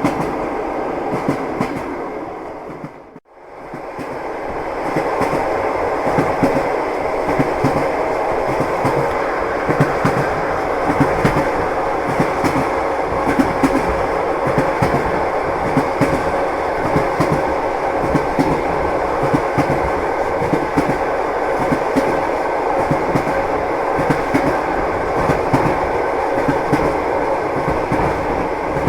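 Train wheels clattering over the rail joints under a moving railway carriage, a steady rumble with a continual run of knocks. About three seconds in it fades out almost to silence for a moment and fades back in, as at a splice in a loop.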